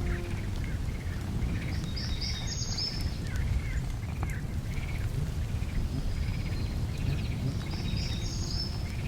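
Outdoor ambience: a steady low rumble under birds calling. One bird repeats a short chirp over and over, and a second bird gives a brief higher song twice.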